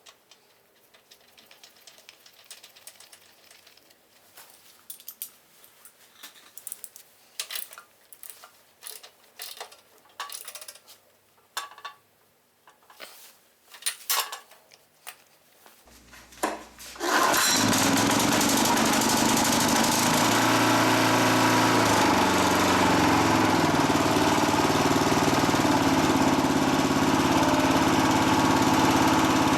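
Scattered light clicks and knocks, then a bit over halfway through a walk-behind tiller's small engine starts straight away and runs steadily. The quick start comes with a freshly replaced spark plug, which cured its hard starting.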